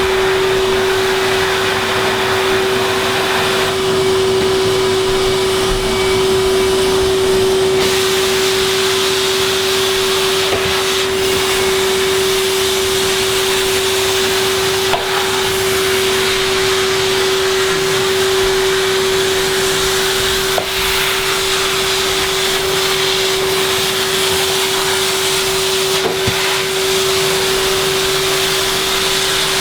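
Vacuum cleaner running steadily, a constant motor whine over rushing air, as it is worked slowly over a freshly sanded floor to pick up the sanding dust. The rush of air shifts a little a few seconds in as the floor head moves.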